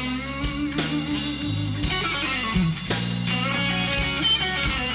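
Live slow blues band playing between sung lines: an electric guitar answering the vocal with bent notes over bass and a drum kit keeping a slow beat.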